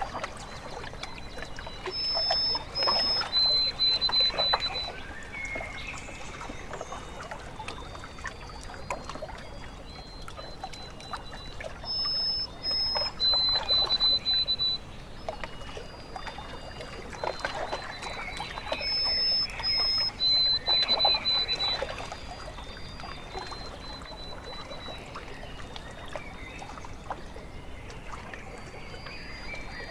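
Small waves lapping and splashing at a lake shore in bouts, with birds calling over it. One bird repeats the same short phrase three times: two quick high notes, then a slightly lower held note.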